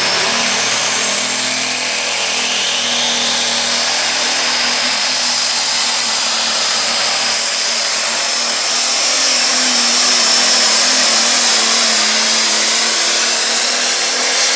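A Light Pro Stock pulling tractor's diesel engine running at full throttle through a pull, with a high whine that rises over the first few seconds and then holds. It gets louder about nine seconds in.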